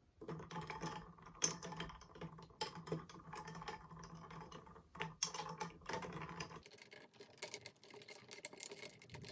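Kitchen handling sounds: a rapid run of small clicks and taps. About two thirds in, this gives way abruptly to a thinner, higher clicking.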